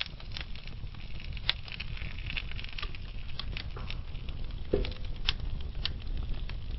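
Wood fire burning slowly in a fireplace: a low steady rumble of flame with scattered sharp crackles and pops from the burning logs, one louder pop about a second and a half in and a short hiss-like squeal near the end.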